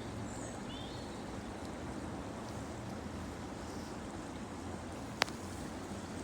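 Steady low outdoor background rumble, with a few faint high bird chirps in the first second and one sharp click just after five seconds.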